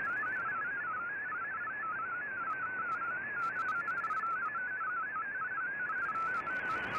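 Shortwave MFSK digital data signal from an Icom IC-R8600 receiver: a rapid warbling tone hopping between pitches, over background hiss.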